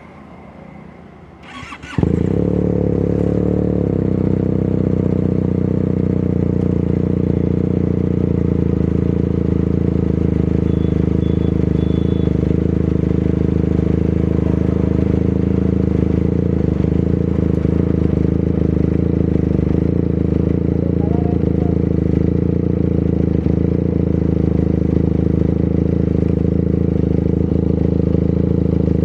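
QJ Motor SRK 400 motorcycle starting up: a brief crank, then the parallel-twin engine catches about two seconds in and idles steadily through the exhaust.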